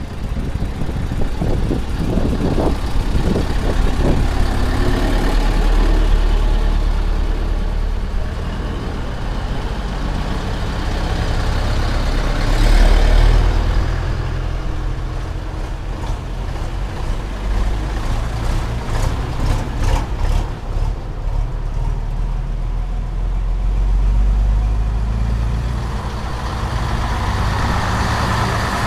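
Vintage Scania-Vabis bonneted (Torpedo) truck diesel engines running and driving by, a steady low rumble that swells as one passes close about halfway through and again near the end.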